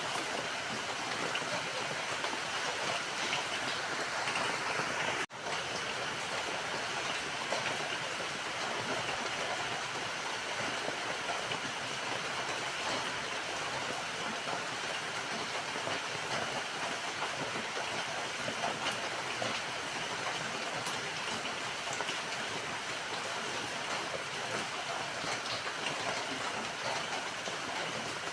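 Steady rain falling, a dense even hiss of drops. It cuts out for an instant about five seconds in, then carries on unchanged.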